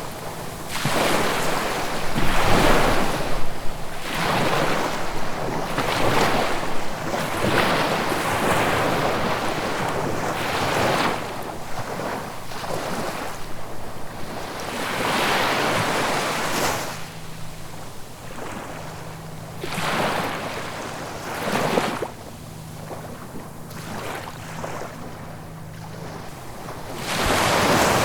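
Ocean waves breaking and washing up the shore in repeated swells, one after another in the first half. They then ease off into quieter, scattered washes, and a bigger wave breaks near the end.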